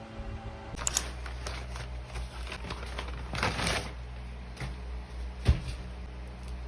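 Objects being handled: scattered light clicks and rustles, a longer rustle about three and a half seconds in, and one sharp knock about five and a half seconds in, over a low steady hum.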